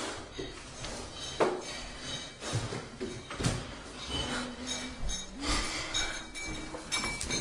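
Clinking and clattering of small hard objects, a string of light knocks and clicks like dishes or utensils being handled.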